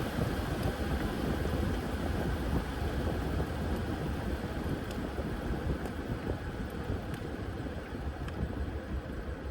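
Washing machine running: a steady low rumble that eases slightly near the end.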